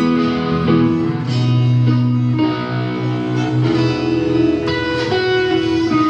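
Live band playing an improvised instrumental jam, with guitar to the fore over held low notes.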